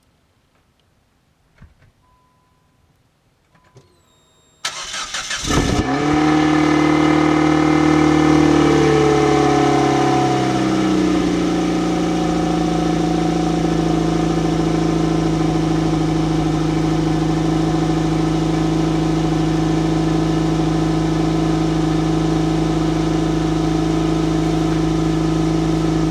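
2004 Nissan Sentra's 1.8-litre QG18DE four-cylinder cold start: a few faint clicks and two short beeps, then a brief crank about five seconds in before the engine catches. It runs at a raised cold idle that falls in pitch and settles to a steady fast idle about five seconds later.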